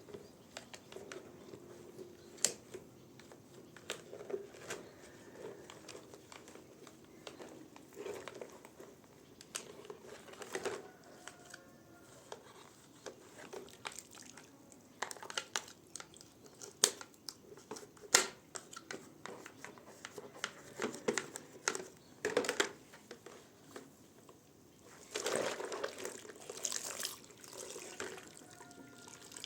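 Hand cleaning of an LG front-load washing machine: scattered clicks, knocks and handling noises, with water and dripping sounds and a longer rustling stretch near the end.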